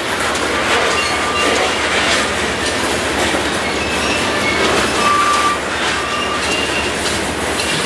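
Loaded coal train's hopper cars rolling steadily past on steel wheels, with short high wheel squeals now and then, the loudest about five seconds in.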